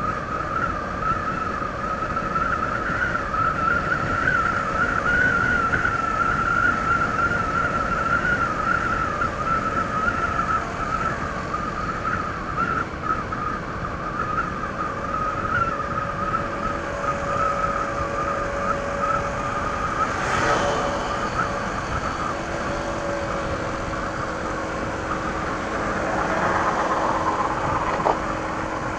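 Honda ADV 160 scooter riding at a steady speed on its stock exhaust: the single-cylinder engine running under a constant rush of wind and road noise, with a steady high tone that wavers slightly throughout.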